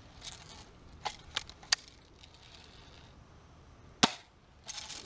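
Old BB gun being handled and fired. A few small mechanical clicks come about a second in, then one sharp shot about four seconds in. The gun is dry and needs oiling.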